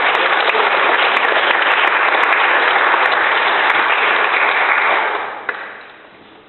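Congregation applauding: steady clapping that dies away about five seconds in.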